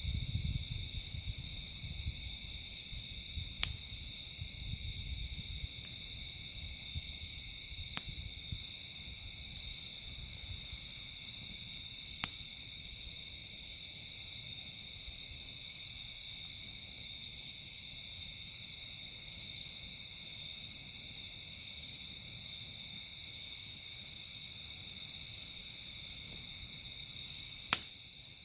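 Steady chorus of insects chirping, with a few sharp isolated pops from a campfire, the loudest one near the end.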